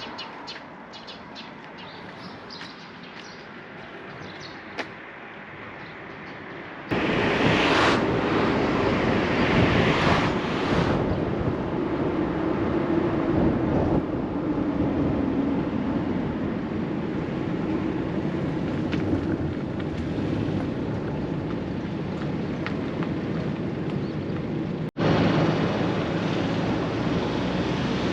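Outdoor background noise: a quieter stretch with faint scattered ticks, then from about seven seconds in a louder, steady rushing noise with a low rumble, broken by an abrupt cut about twenty-five seconds in.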